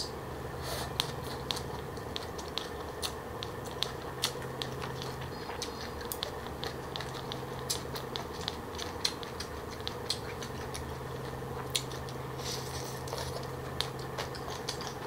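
Close-miked chewing of a mouthful of green papaya salad with pig ear: irregular crisp crunches and small wet mouth clicks, several a second, over a steady faint hum.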